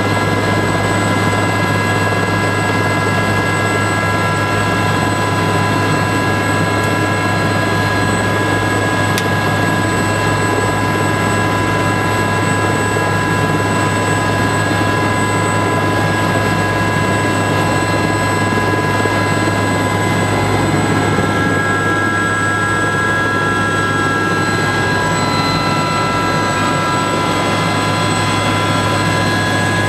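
Soko-Aérospatiale SA 341 Gazelle helicopter running after start-up: its Astazou turboshaft and rotors make a steady loud whine of several high tones over a low hum. Some of the tones shift in pitch about three-quarters of the way through.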